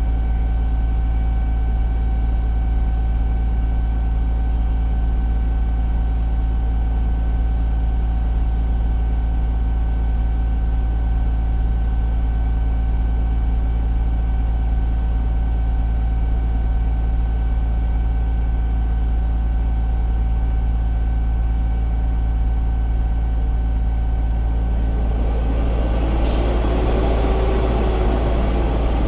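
Fire engine's diesel engine running steadily with a deep, constant hum, heard from inside the cab. Near the end a rougher hiss comes in, with one sharp click.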